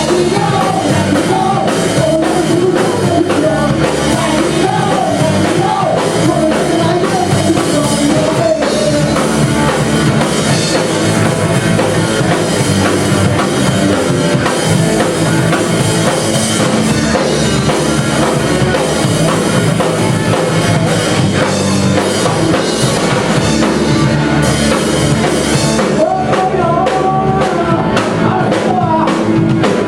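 Live rock band playing a song, with a drum kit and a singing voice carrying the melody.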